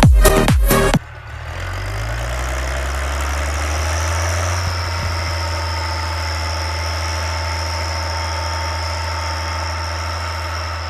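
Dance music with a heavy beat cuts off about a second in, giving way to a Case 1056 tractor's diesel engine running steadily: a low drone with a thin high whine above it.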